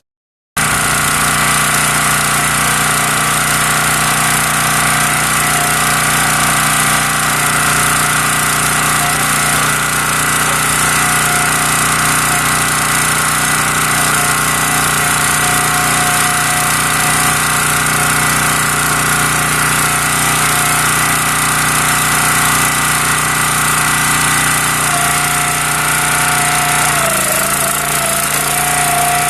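Small gas engine of a new County Line log splitter running steadily at constant speed. About 27 seconds in, its note dips briefly, then recovers.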